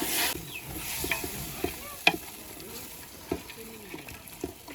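A spoon mixing a chicken, yogurt and garlic marinade in a bowl: irregular scrapes and clinks, the sharpest about two seconds in.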